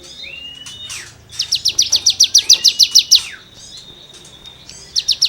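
A cigun songbird singing in rapid rattling trains of short, sharp downslurred notes, about ten a second. One bout lasts nearly two seconds and another begins near the end, with a thin drawn-out whistle between and under them.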